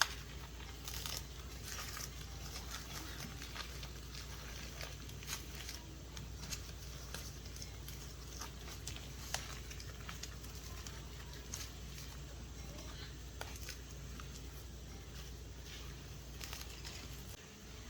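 Scattered light clicks and handling noises over a steady low hum.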